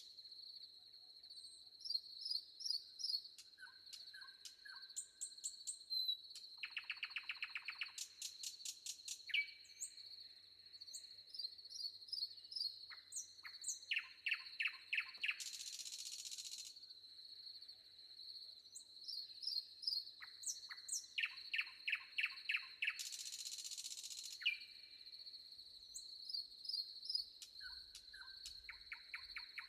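Forest birds of several kinds calling: short chirps, whistled notes and fast trills, over a steady high-pitched insect trill. Two brief buzzing bursts come about halfway through and again about three quarters of the way through.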